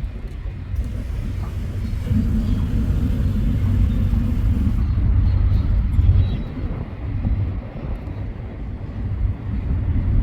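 Freight train rumbling past, a steady low rumble.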